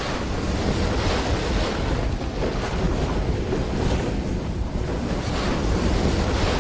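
Steady rushing noise of strong wind, swelling and easing slightly, with the wind buffeting the microphone.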